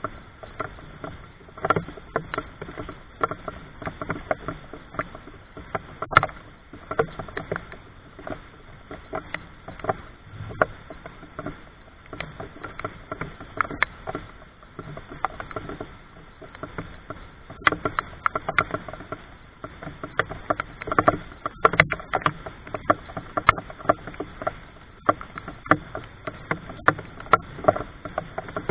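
Rainwater dripping and splashing in irregular drops and taps, a few a second, over a low hiss.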